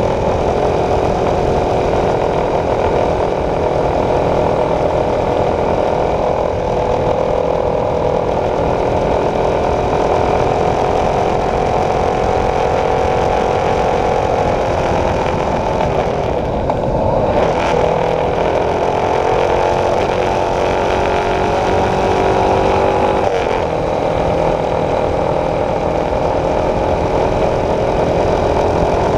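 Honda CB300F's single-cylinder engine running under way, a steady engine note whose pitch drops and then climbs back about halfway through as the revs change.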